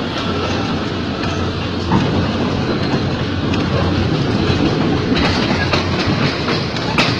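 Ex-JR 203 series electric multiple unit running on Philippine National Railways track: a steady rumble of the train in motion with clickety-clack of wheels over rail joints, and a couple of sharp knocks, about two seconds in and near the end.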